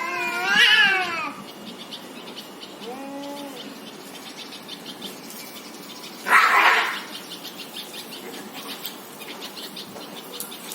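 Cats fighting: one loud wavering yowl near the start, a short lower cry about three seconds in, and a loud harsh burst about six seconds in.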